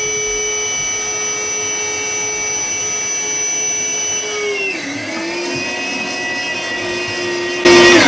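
A small electric motor whines steadily at a high pitch, then drops to a lower pitch about four and a half seconds in, as if taking on load. Near the end a sudden loud burst of noise breaks in over it.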